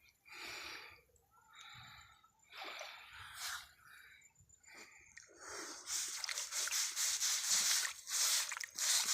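Wet mud and water squelching and splashing as hands dig into a muddy hole after catfish, faint and patchy at first and louder and more continuous in the second half.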